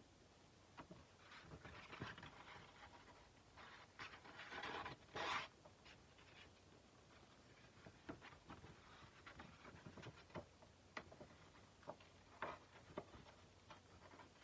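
Faint hand sanding of a steel kukri blade: a few short scratchy rubbing strokes of abrasive paper on the steel, the loudest about five seconds in, among scattered light clicks and taps.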